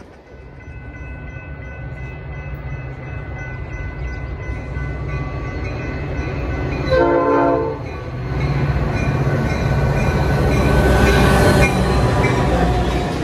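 Metra commuter train approaching at speed behind its diesel locomotive. The rumble builds steadily and is broken by one short horn blast about seven seconds in. It is loudest near the end as the locomotive passes close by.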